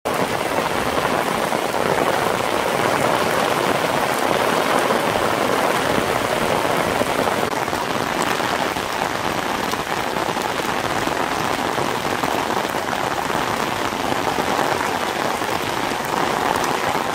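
Heavy rain pouring onto a flooded rice paddy: a loud, steady, dense hiss of drops hitting standing water.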